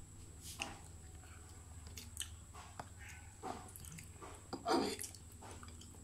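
A person chewing a mouthful of pancit canton noodles close to the microphone, with small wet clicks of the mouth and a couple of short louder mouth sounds partway through.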